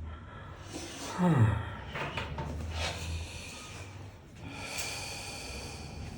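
A chiropractic patient lets out a short groan that falls in pitch about a second in, then breathes out heavily in two long exhales.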